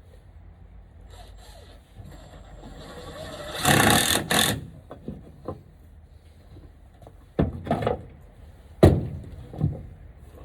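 Woodworking on a 2x4 frame: a noise that builds to a loud scraping burst about four seconds in, then a few sharp knocks of wood being handled.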